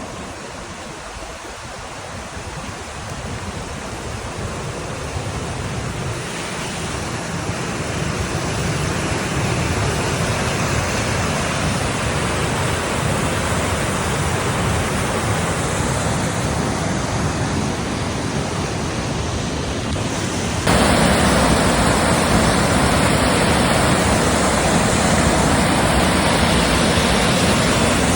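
Steady rush of a fast mountain stream or waterfall, growing gradually louder over the first ten seconds and jumping suddenly louder a little after twenty seconds in.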